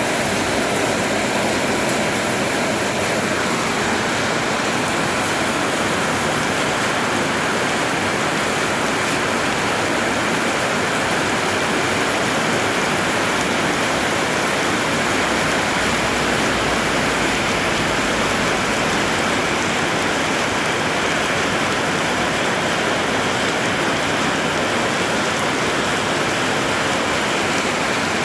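Heavy rain falling steadily, a dense, even rushing hiss.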